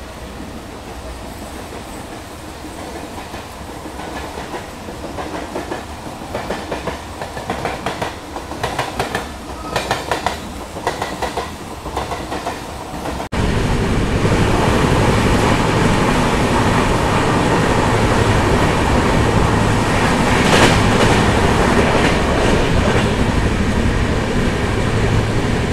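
Brindavan Express passenger train running at speed, its wheels clicking and clattering unevenly over the track and growing louder. About halfway through, the sound cuts suddenly to a louder, steady rumble of the moving train with a low hum.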